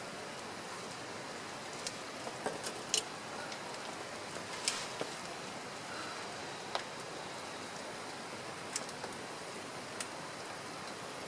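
Steady hiss of rain falling, with a scattered handful of sharp ticks and taps through it.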